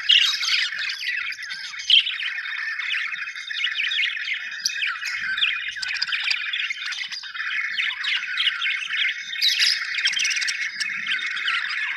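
A flock of budgerigars chirping and warbling continuously, many birds calling over one another, with a few sharper, louder calls standing out.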